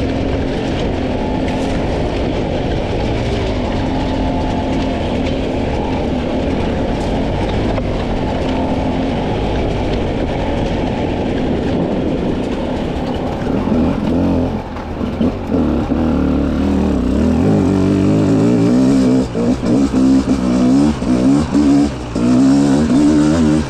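300 cc two-stroke dirt bike engine running at steady, fairly low revs, then from about halfway through revving up and down in short bursts as the throttle is blipped and chopped.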